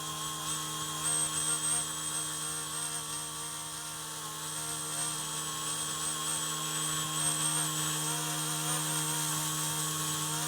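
Eachine E190 Huey RC model helicopter running: a steady electric motor whine and rotor buzz, the whine's pitch wavering slightly as the throttle shifts.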